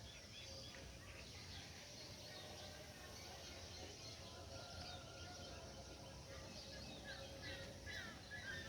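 Faint outdoor ambience with small birds chirping in short calls, busier near the end.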